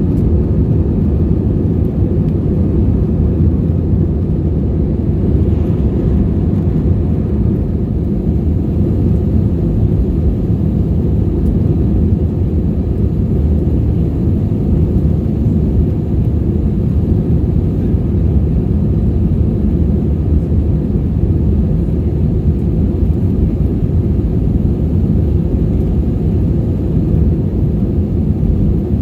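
Steady low rumble of an Airbus A320-232's IAE V2500 turbofan engines and airflow, heard inside the passenger cabin; the level and pitch hold even throughout.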